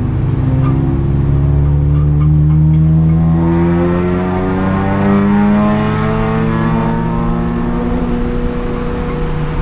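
Race car engine heard from inside the cabin, accelerating out of a corner. Its pitch rises steadily for about five seconds, then holds roughly level along the straight.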